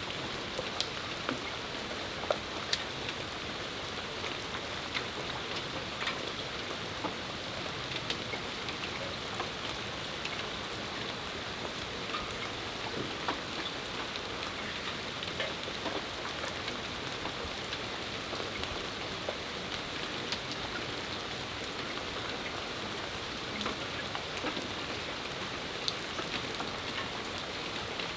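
Steady rain falling, with many individual drops ticking sharply on hard surfaces close by.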